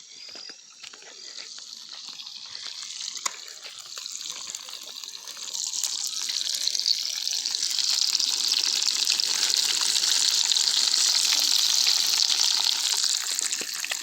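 Bonfire catching: a dense crackling hiss that grows steadily louder and fuller from about halfway through.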